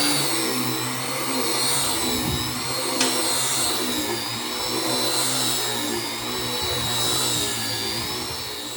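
Electric power tool running steadily, its high whine wavering up and down in pitch as it works the wood.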